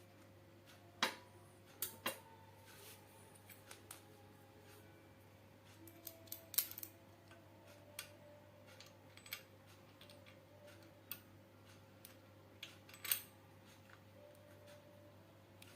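Scattered light clicks and metallic taps of small parts and tools being handled while a grinder is assembled, irregular and spaced out, over a faint steady hum.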